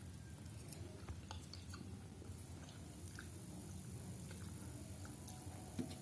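A person chewing mouthfuls of Indomie fried noodles close to the microphone, with scattered small mouth clicks and one sharper click near the end, over a steady low hum.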